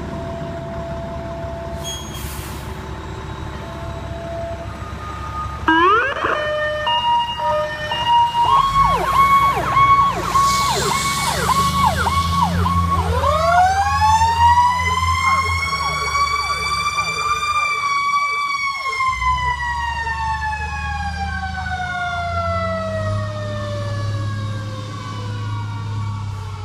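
Fire engine siren over the truck's engine rumble. About six seconds in the siren starts with short stepped tones, then a fast yelp, then a long wail that rises slowly to a high pitch and slowly winds back down.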